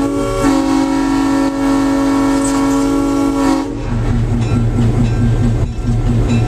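Nathan M5 five-chime air horn on an EMD FP7 diesel locomotive sounding a short blast and then a long one of about three seconds. After the horn stops, the locomotive's diesel engine runs steadily with an even rhythmic pulse.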